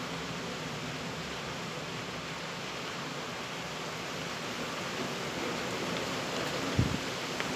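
Steady rushing noise of a rainstorm, rain and wind together, growing a little louder after the middle. A brief low thump comes near the end.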